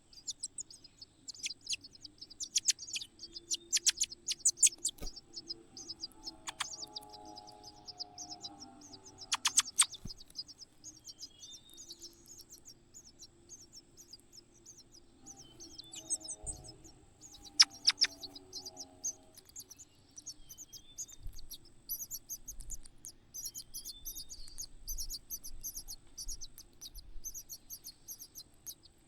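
Small birds chirping: quick runs of high-pitched chirps, loudest in the first five seconds and picking up again in the second half, over a faint steady high whine. Lower-pitched calls come in twice, about six and sixteen seconds in.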